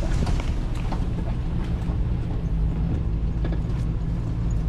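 Ranch buggy's engine running as it drives over rough ground, with a steady low hum and scattered creaks and rattles from the body and load.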